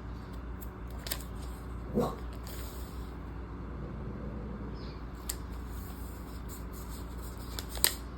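Planner paper and sticker packaging being handled, with a few sharp taps and clicks, over a steady low hum. About two seconds in there is a short yip, like a puppy's.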